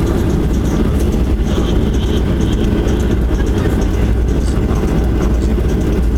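Cabin noise inside a Boeing 737-800: a loud, steady low rumble of the engines and airflow.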